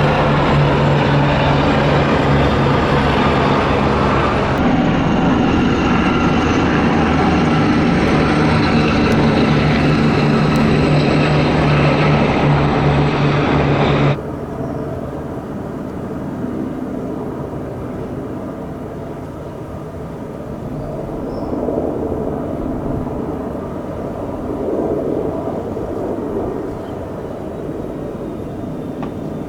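Military aircraft flying over low in a flypast: a loud, steady engine drone with a strong low hum that cuts off suddenly about halfway through. A quieter, more distant aircraft rumble follows, swelling slightly twice.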